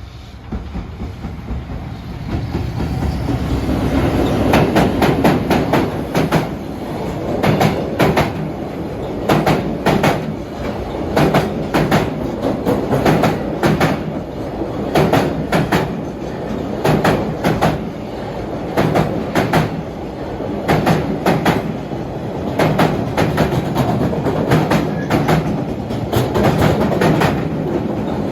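A train passing at speed. The rumble builds over the first few seconds, then the wheels clatter over the rail joints in regular pairs of clicks, a pair every second or two.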